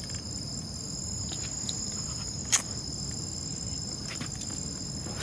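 Steady high-pitched insect chorus ringing on two even tones, over a low rumble, with a single sharp click about two and a half seconds in.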